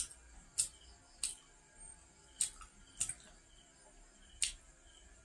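Close-up wet mouth clicks and smacks of a person chewing a fried nom krouch Khmer dessert: about six sharp clicks at uneven intervals.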